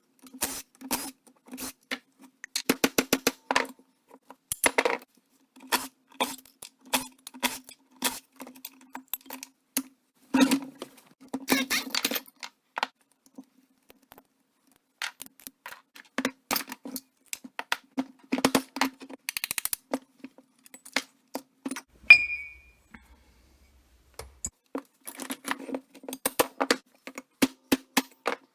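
Metal tools and parts clicking and clinking in quick runs of sharp taps and knocks, with a faint low steady hum behind them: scrap alternators, A/C compressors and a water pump being taken apart by hand.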